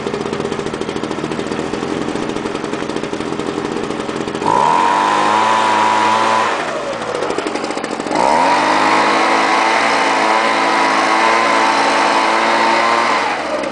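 Homelite two-stroke leaf blower engine idling, then revved up to full throttle twice: briefly about four seconds in, and again for about five seconds from about eight seconds in. Each time it drops back to idle. It runs evenly after a 0°F cold start.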